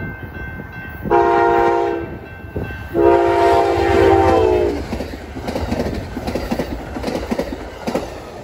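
Amtrak GE Genesis diesel locomotive sounding its horn at a level crossing: a short blast about a second in, then a long blast whose pitch drops as the locomotive passes, the close of the crossing horn signal. Then the Superliner cars rumble by with a fast clickety-clack of wheels over the rail.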